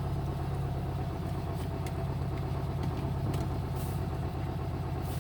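1970 VW Beetle's air-cooled flat-four engine idling steadily in neutral, with an even, unchanging pitch.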